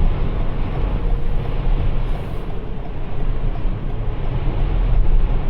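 Steady low rumble and hiss of road and tyre noise inside the cabin of a Toyota RAV4 Prime driving on Blizzak snow tires over a snow-covered road.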